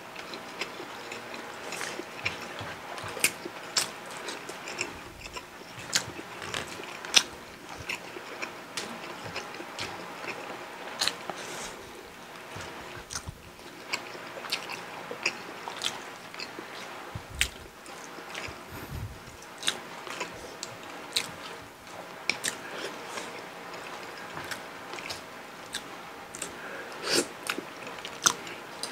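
Chewing, with many short sharp mouth clicks scattered irregularly, as two people eat fish and rice.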